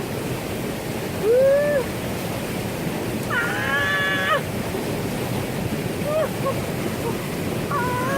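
Mountain stream water rushing steadily and loudly, with a few short pitched vocal sounds over it, one held for about a second.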